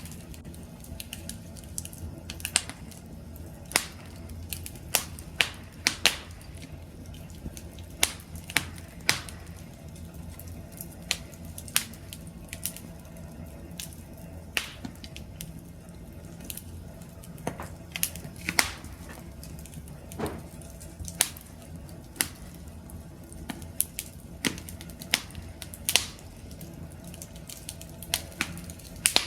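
Wood fire crackling, with sharp irregular pops and snaps over a steady low rumble of flame.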